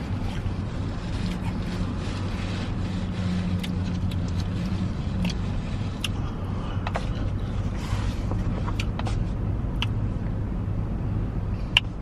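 Car engine idling, heard inside the cabin as a steady low hum, with scattered small clicks and crinkles over it and a sharper click near the end.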